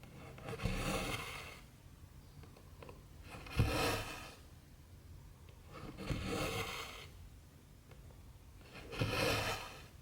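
Cotton embroidery floss pulled through cross-stitch fabric: four raspy swishes about every three seconds, the second starting with a light tap.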